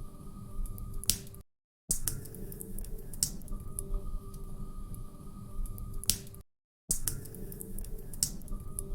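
Log fire in a fireplace crackling, with sharp pops and snaps over a low steady rumble. The sound cuts out to silence for half a second about a second and a half in, and again just past six seconds, as a short loop restarts.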